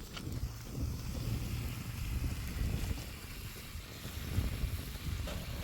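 Wind buffeting the microphone: an uneven, gusty rumble with a faint hiss above it.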